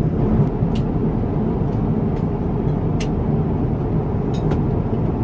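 Steady low rumble of an Airbus A350-1000 airliner cabin, engine and airflow noise, with a few faint clicks.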